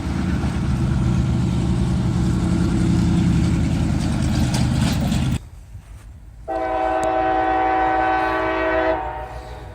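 A steady low rumble stops abruptly about five seconds in. After a short gap, a diesel locomotive's multi-chime air horn sounds one long, steady blast of about two and a half seconds.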